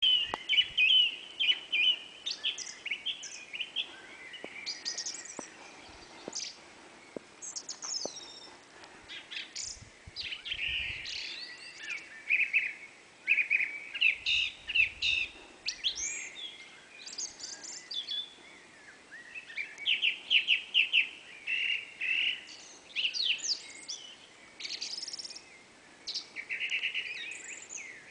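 Songbirds singing at night: varied phrases of chirps, trills and quick whistles, with short pauses between phrases and a fast run of repeated notes partway through.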